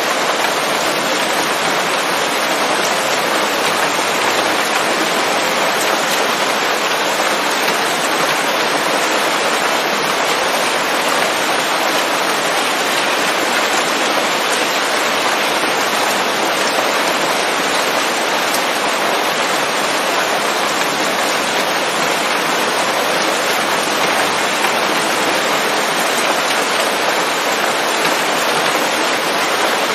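Steady rain pattering on forest leaves, an even dense hiss with no thunder.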